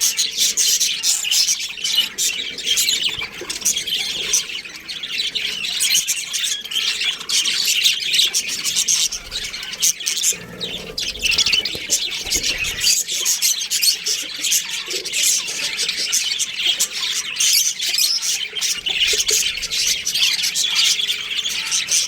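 A flock of small birds chirping and chattering continuously, many calls overlapping at once.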